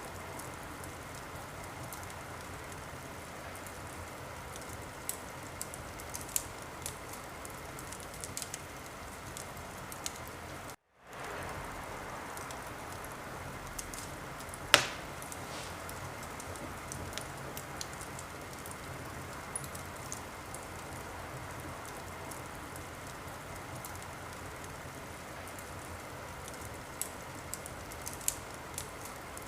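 Wood fire crackling in a fireplace: a steady hiss with scattered small crackles and one loud pop about 15 seconds in. The sound cuts out to silence for a moment just before 11 seconds.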